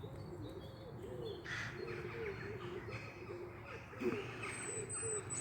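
Pigeons cooing in a steady repeated run of low notes, with small birds chirping over them and a thin high whistled note near the end.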